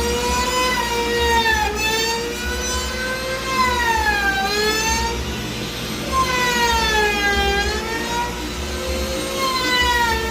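High-speed electric wood router running and cutting the edge of a speaker box, a steady whine whose pitch sags and recovers every couple of seconds as the bit loads up in the wood.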